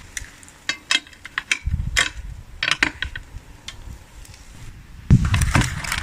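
Irregular sharp clicks and knocks, a dozen or so, like hard objects being handled, with bursts of low rumble about one and a half seconds in and again near the end.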